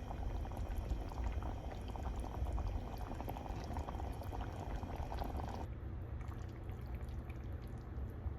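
Water pouring, a steady splashing hiss that cuts off suddenly about two thirds of the way through, leaving a low hum.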